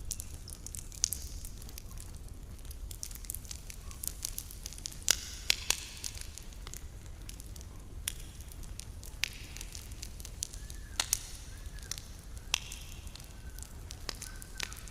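Campfire crackling, with sharp pops and snaps at irregular intervals over a low steady rumble. Short bursts of hissing come about five seconds in and again about twelve seconds in.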